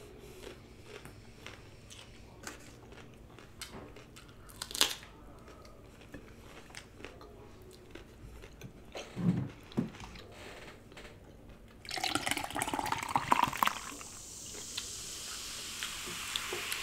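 Close-miked chewing of chicken wings with ranch dressing: soft wet mouth smacks and small clicks. About twelve seconds in comes a louder, rougher stretch of noise lasting a couple of seconds, followed by a steady hiss.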